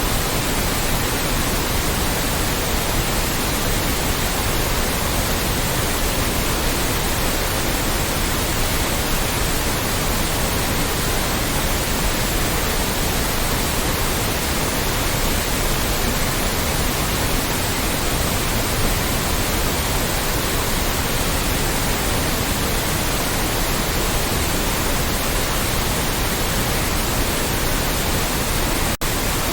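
Loud, steady synthetic white noise, an even hiss across all pitches, with a momentary dip in level near the end.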